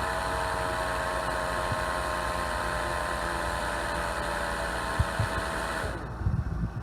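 Husqvarna Automower 430X blade motor spinning the cutting disc with a steady whine, now without the noise that adjusting the cutter housing cleared. It cuts off abruptly about six seconds in, with a few low knocks around then.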